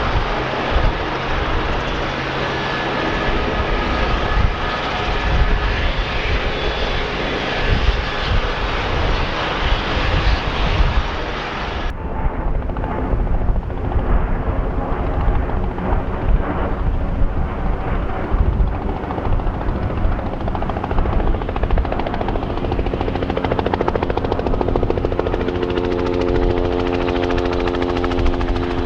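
Helicopter running close by, a steady loud mix of rotor and engine noise. About twelve seconds in the sound changes abruptly and turns duller, and near the end a steady whine with several tones grows stronger.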